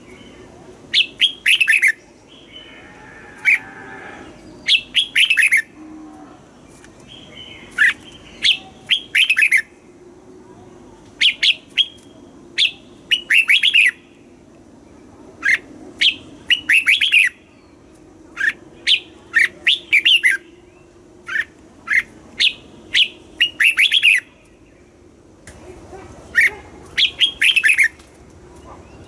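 Red-whiskered bulbul singing: short, loud, warbling song phrases repeated every second or two, with brief pauses between them.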